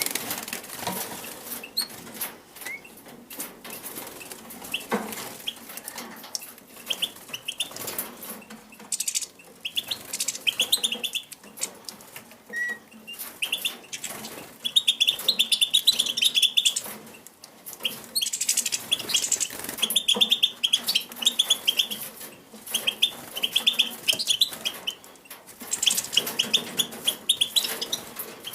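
Small songbirds (finches) fluttering and flapping their wings at close range while taking food from a hand, with scattered light clicks. From about a third of the way in, runs of short, quick chirping calls join in.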